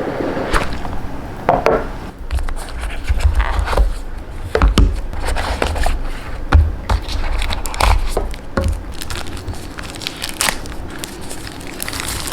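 A boxed DJI Pocket 2 camera being unpacked by hand: cardboard scraping, plastic wrap crinkling, and irregular clicks and knocks as the box and its inserts are opened.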